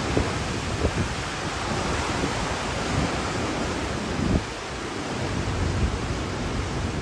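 Hurricane wind rushing steadily, with gusts buffeting the microphone a few times.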